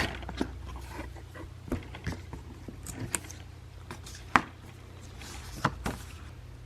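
Scattered light clicks and taps of a small advent calendar piece being handled and opened by hand, with a sharper knock about four seconds in.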